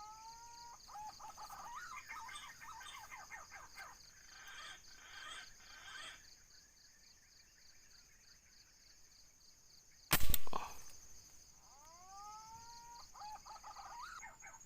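Punai (green pigeon) lure call giving a rising whistled glide at the start and the same call again about twelve seconds in, with bird chirps between and a steady high pulsing hum throughout. A single loud sharp crack about ten seconds in.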